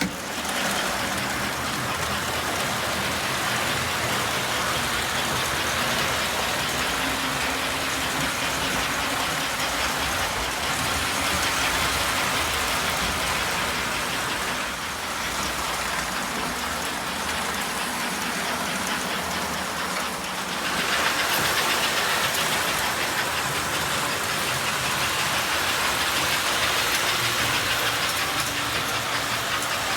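American Flyer S-gauge model train running on the layout track: a steady rumble and rattle of wheels and motor that gets somewhat louder about twenty seconds in.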